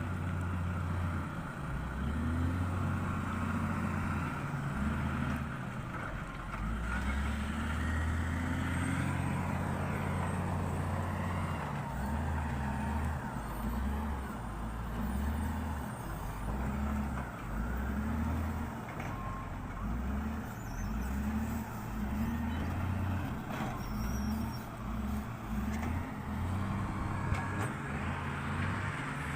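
Heavy diesel engine of logging machinery running under changing load, its pitch stepping up and down every second or so.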